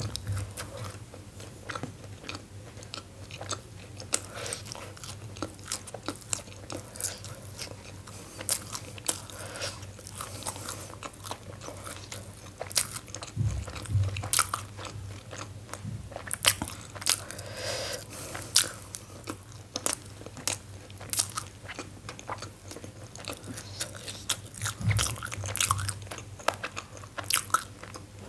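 Close-miked chewing and mouth sounds of someone eating soft steamed momos: many small irregular wet clicks and smacks, over a steady low hum. Two dull low thumps come about halfway through and near the end.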